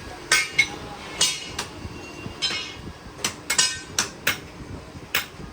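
A hammer striking metal in a series of about ten irregular blows, each with a short metallic ring.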